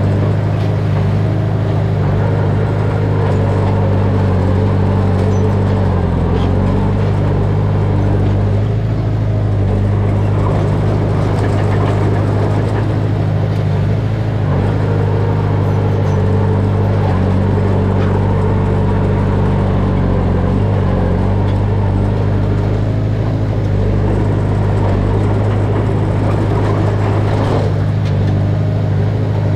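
Heavy diesel engine of earthmoving equipment running steadily at a constant pitch, with only slight changes in speed.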